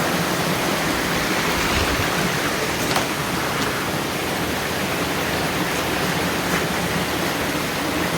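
River water rushing over a waterfall: a steady, even noise with a few faint clicks.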